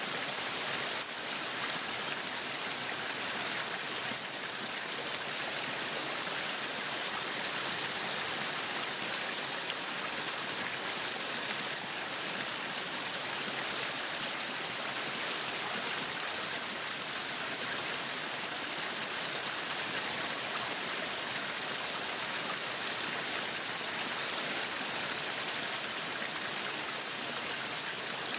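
Meat sizzling on a yakiniku grill: a steady, dense sizzle weighted toward the high end.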